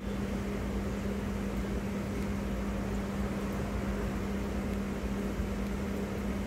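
Steady drone of a train carriage interior, with a constant low hum tone running through it.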